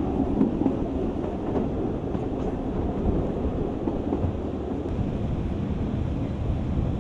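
Narrow-gauge railway carriage running, heard from inside: a steady rumble of wheels on rail with a few faint clicks.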